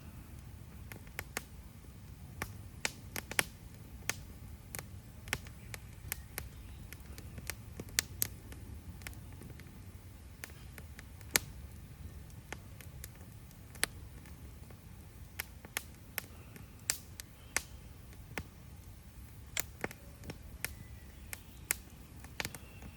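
Burning campfire wood crackling, with sharp pops at irregular intervals over a low steady rumble.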